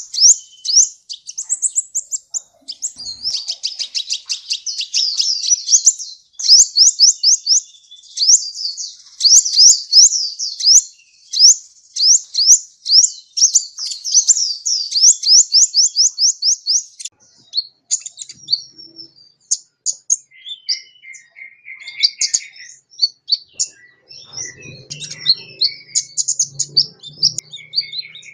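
Sunbird singing: fast series of high, thin chirps, several notes a second. After about two-thirds of the way through, these give way to looser, scattered twitters.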